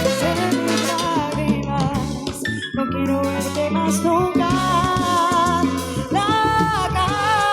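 Salsa band playing live, with a steady bass line, percussion and a held, wavering melody line.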